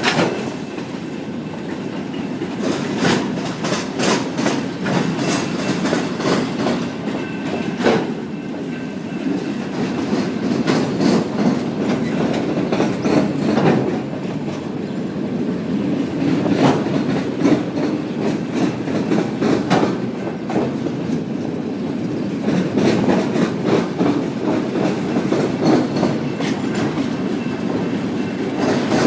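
Freight train's autorack cars rolling past on a curve: wheels click steadily over rail joints over a continuous rumble of the cars.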